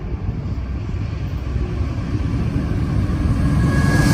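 Norfolk Southern diesel freight locomotives approaching, a low engine and rail rumble that grows steadily louder as the lead unit nears.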